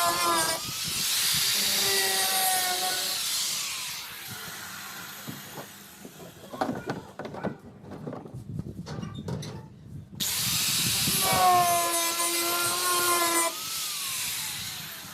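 Electric power tool cutting into a cement pillar: the motor runs loud with harsh grinding noise for about four seconds, stops, and several seconds of irregular knocking follow. It starts again about ten seconds in and winds down in pitch near the end.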